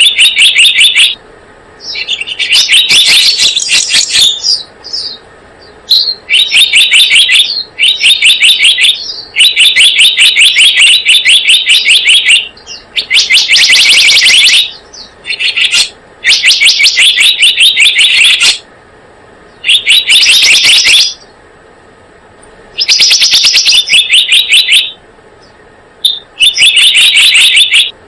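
Recorded lure call of the selendang biru bird: loud, high, rapid chirping trills, each a quick run of evenly repeated notes lasting one to three seconds, coming again and again after short pauses.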